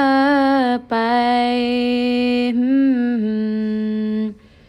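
A child's solo voice singing unaccompanied, drawing out the last word of a line ('pai') on long held notes. There is a brief break just before a second in, and the second note wavers in pitch about three seconds in before stopping shortly before the end.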